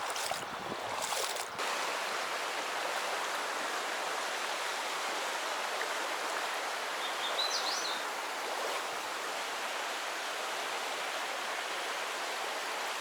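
River water flowing steadily, a constant rushing hiss, with a brief high chirp about halfway through.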